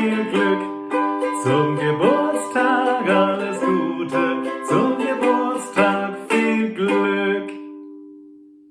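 Acoustic guitar and ukulele strumming chords in a steady rhythm, ending on a final chord that rings out and fades away about seven seconds in.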